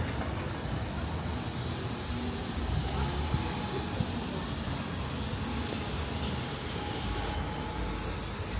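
Street traffic: motor vehicles running past with a steady low engine and tyre rumble.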